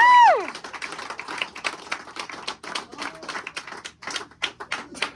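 A brief high cry that rises and falls, then a few people clapping unevenly, sparse sharp claps that thin out near the end.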